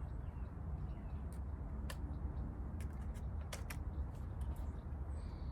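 Heavy salvaged generator part being rolled: a low steady rumble with scattered light metallic clicks and ticks.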